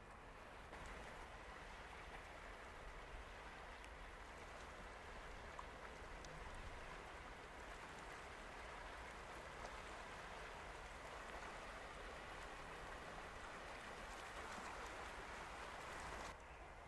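Faint, steady rushing of water, starting suddenly just after the start and cutting off near the end.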